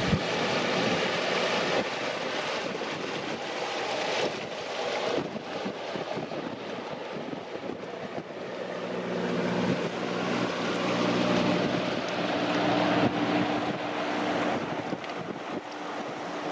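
Wind buffeting the microphone, with a passing boat's engine running, its steady hum coming in about nine seconds in and holding.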